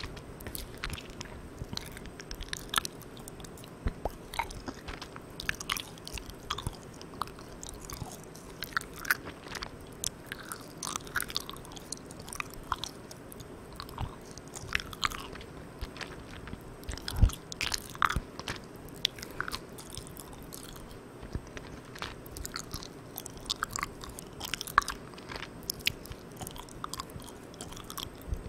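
Close-miked mouth sounds of chewing Malang Cow soft chewy milk candy: irregular sticky, wet clicks and smacks, with one louder smack about two-thirds of the way through. A steady hiss sits underneath, from the microphone gain turned all the way up.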